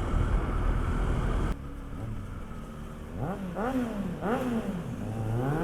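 Low riding rumble that drops away abruptly about a second and a half in. Then a motorcycle engine is revved in a run of quick throttle blips, each rising and falling in pitch, with the last near the end the loudest.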